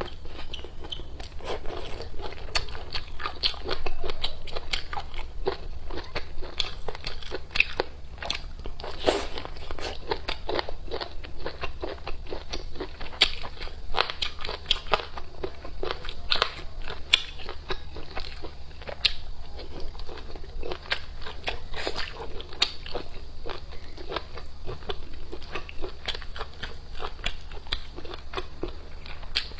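Close-miked eating of chicken giblet noodles: a person biting and chewing, a dense irregular run of small wet clicks and crunches over a low steady hum.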